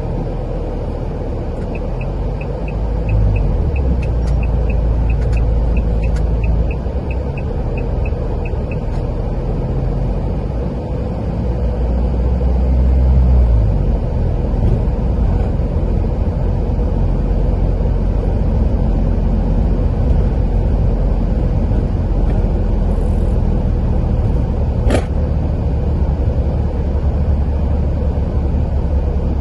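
Car driving along a road: steady low rumble of engine and tyres. A few seconds in comes a run of light, even ticks, a little over two a second, lasting about seven seconds, and near the end a single sharp click.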